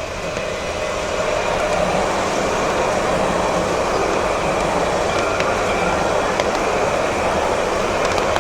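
Jerusalem Light Rail tram running past close by: a steady rush of wheel and motor noise that grows louder about a second in and holds, with faint high whining tones over it.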